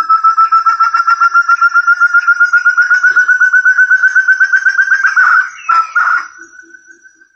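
Forest quail (puyuh hutan, 'burung terung') calling in a fast run of clear whistled notes, about nine a second, that slowly rise in pitch. After about five seconds the series breaks up and trails off into a fading note. This is a recorded lure call.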